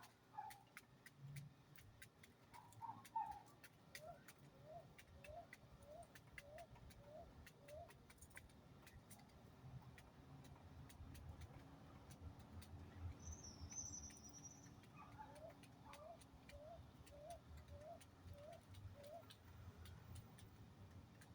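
Faint bird calls: two runs of about seven short, rising notes in an even series, with one brief high chirp between them, over a steady faint ticking.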